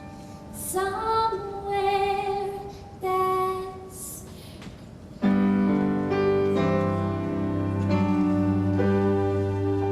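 Musical theatre song: a woman's voice sings held, wavering notes over soft keyboard accompaniment. About five seconds in, the full band comes in suddenly and louder with a sustained chord.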